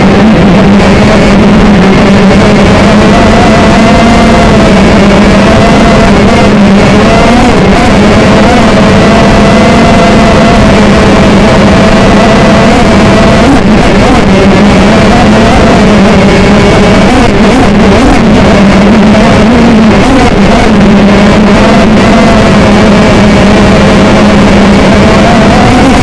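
TBS Gemini FPV multicopter's electric motors and propellers running with a loud, steady hum whose pitch wavers a little up and down.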